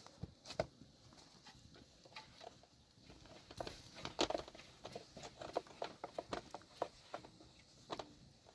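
Irregular light taps and clicks, coming more densely in the middle stretch.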